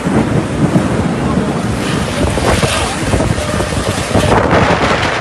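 Heavy rain pouring down, a loud, dense hiss, with wind buffeting the microphone.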